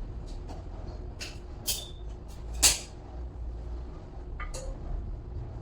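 A few sharp clicks and knocks over a steady low hum, the loudest about two and a half seconds in.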